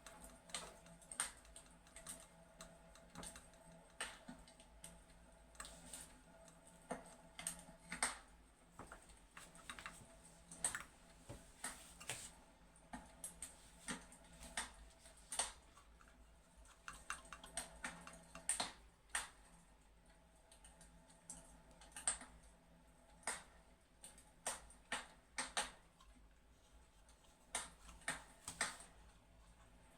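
Fireplace crackle: faint, irregular snapping clicks, one or two a second, over a low steady hum.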